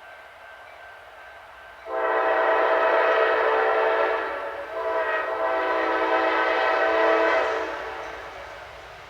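Diesel freight locomotive air horn sounding two long blasts with a brief break between them, the second fading away.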